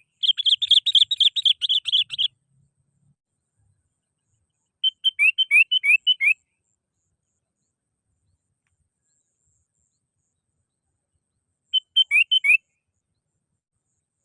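Sooty-headed bulbul (kutilang) singing: three bouts of quick chirping notes, a long run at the start, a run of rising slurred notes about five seconds in, and a short run near the end, with silence between.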